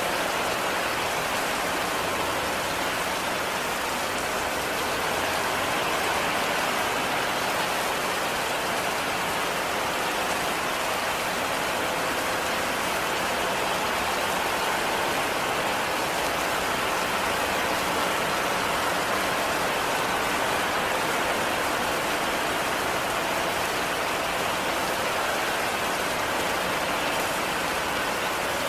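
Heavy rain falling steadily: a constant, even hiss with no thunder or other events.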